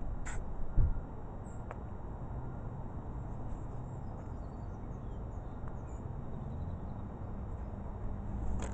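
Outdoor background noise: a low steady rumble with a click and a thump about a second in, and faint high chirping in the middle.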